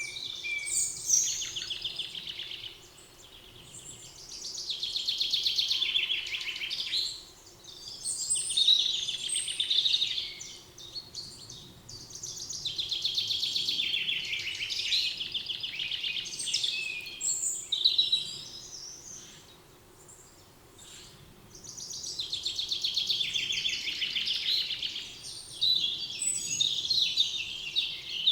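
Songbirds singing: long, fast trilling and warbling phrases, each several seconds long, with brief pauses between them.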